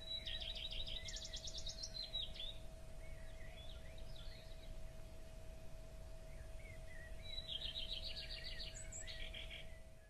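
Songbird singing: two bright trills of rapid repeated notes, one at the start that rises in pitch and one near the end, with softer chirps between, over a low background rumble and a faint steady tone.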